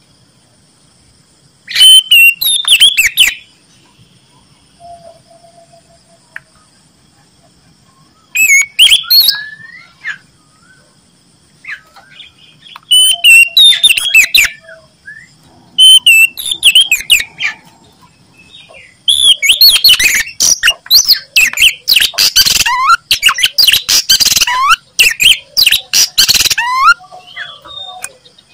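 Oriental magpie-robin singing loudly: four short bursts of quick, warbling phrases, then a long run of rapid notes for most of the second half.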